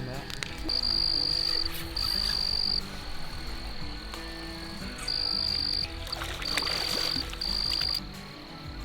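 An insect calling in repeated high-pitched buzzing bursts, each just under a second long, over soft background music.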